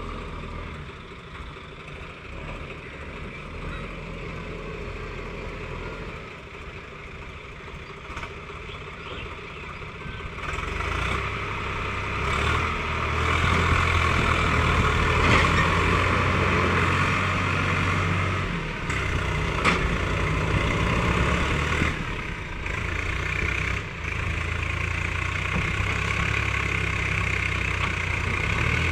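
Engine of a heavy vehicle running steadily, growing louder about a third of the way through.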